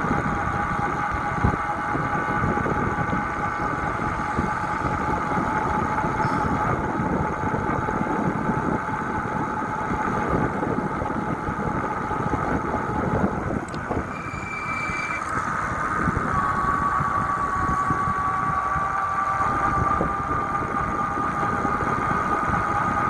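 A bike in motion: steady road and wind rumble under a constant high whine, which climbs slightly in pitch during the second half.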